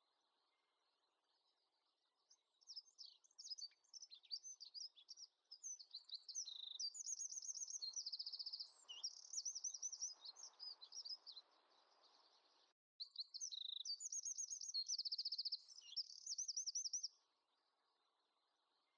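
A small songbird singing: quick high chirps and rapid trills, starting a couple of seconds in, breaking off briefly about two-thirds through, and stopping near the end.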